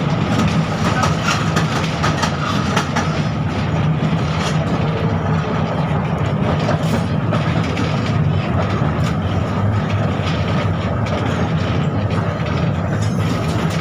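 A 71-605 (KTM-5M3) tram running along the track, heard from aboard: a steady rumble of wheels and traction motors with scattered short clicks.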